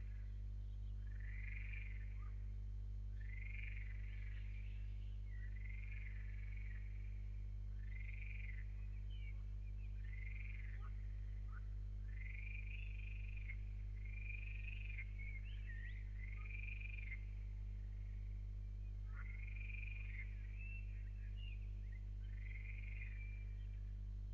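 An animal calling over and over, one short arched call roughly every two seconds with a brief pause midway, over a steady low hum.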